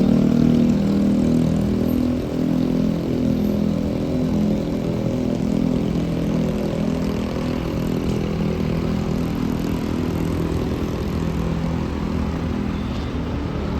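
A heavy vehicle's engine running with a deep, steady hum of low tones, slowly easing off in level.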